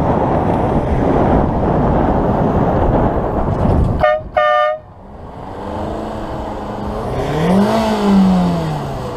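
Road noise, then a car horn gives two short toots in quick succession about four seconds in. Near the end a vehicle's engine note rises and then falls.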